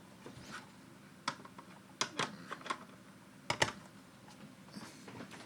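Scattered light clicks and knocks, irregularly spaced, from an O-scale model diesel locomotive being picked up and turned around by hand; the loudest is a quick double click about three and a half seconds in.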